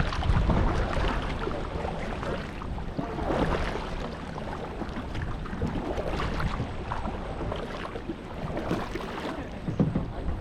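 Wind buffeting the microphone over water, with irregular splashes of kayak paddles dipping in.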